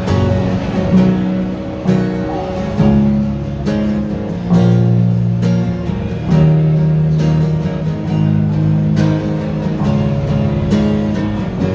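Guitar strumming chords in an instrumental passage between sung verses, played live, with a strong, regular strum every half second to second.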